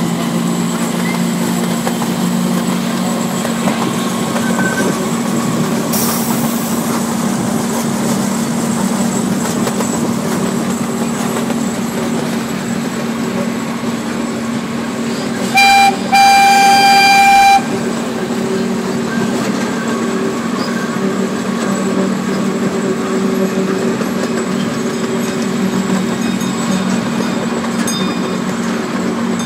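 Miniature zoo train's engine running steadily while riding, with a short toot and then a longer blast of its horn about halfway through.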